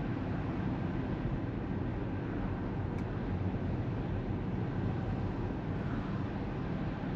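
Steady road noise inside a Tesla Model 3's cabin while it drives: the hiss of tyres and wind, with no engine sound.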